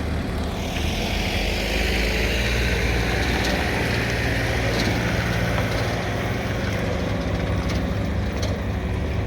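A vehicle engine running steadily, with a rushing noise that swells about a second in and fades after about six seconds.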